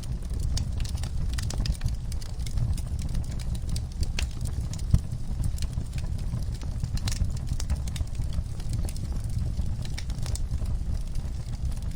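Wood fire burning in a fireplace: a steady low rumble with frequent crackles and pops of burning logs, one louder pop about five seconds in.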